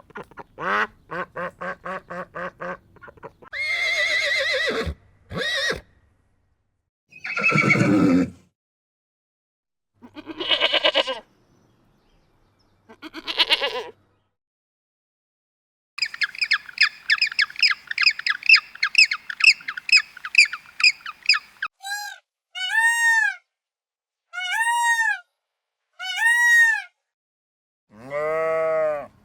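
A string of different animal and bird calls, one clip after another with short silent gaps: quick repeated calls at first, then several single drawn-out calls, a fast chattering run in the middle, and four short rising-and-falling calls near the end.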